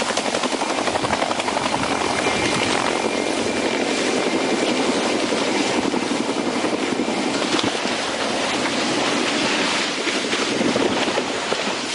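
Aircraft noise: a steady, dense rushing drone with a fast flutter running through it.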